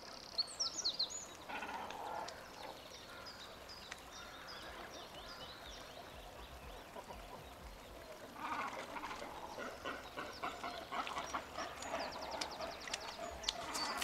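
A flock of feeding birds calling faintly: a burst of short high chirps in the first second or so, then a busier spell of calls from a little past halfway.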